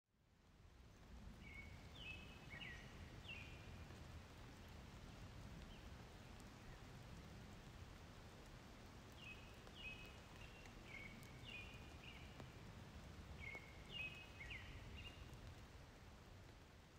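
A small bird calling in three bursts of short, quick chirps that step up and down in pitch, over a faint steady low rumble.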